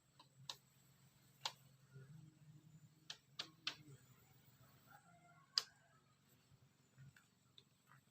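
Faint, scattered sharp clicks and taps, about half a dozen at irregular intervals over near silence, the loudest a little past the middle.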